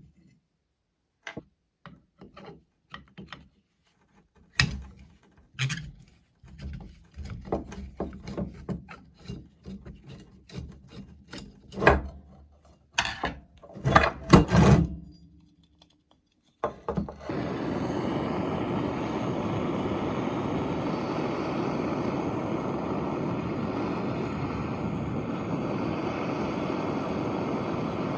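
Scattered knocks and clatter of metal parts being handled and set down, then a steady machine noise starts about halfway through and keeps going at an even level.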